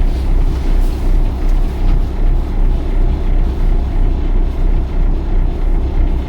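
Twin diesel engines of a Bayliner 4788 pilothouse trawler running, a steady low rumble while the boat manoeuvres slowly astern.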